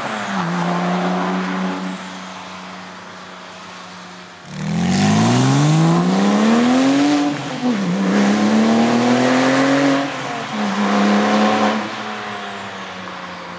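Porsche 997 Turbo's twin-turbo flat-six through a muffler-delete exhaust, under hard acceleration. It starts at a steady lower note, then about four and a half seconds in it goes loud with the pitch climbing. It drops sharply once at a gear change, climbs again and lifts off, then comes back in one short burst before settling to a steady lower note.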